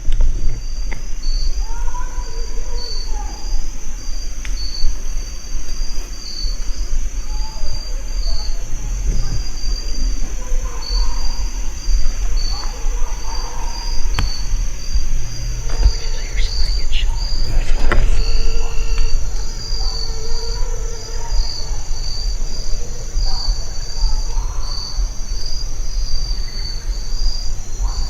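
Insects calling in a steady chorus: a chirp pulsing roughly once a second over a constant high buzz, with a low rumble underneath.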